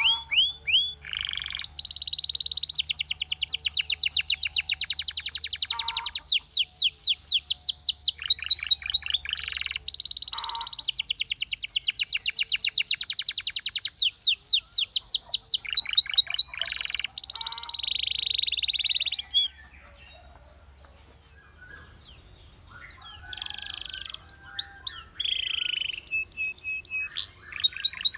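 Canary song: long, rapid trills of evenly repeated high notes and sweeping rolls, with a short pause about two-thirds of the way through before the song resumes.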